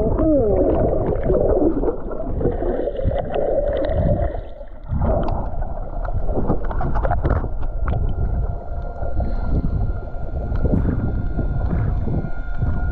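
A motorboat under way: the engine runs with a constant rush of water and heavy low rumble. A steady whine becomes clearer near the end.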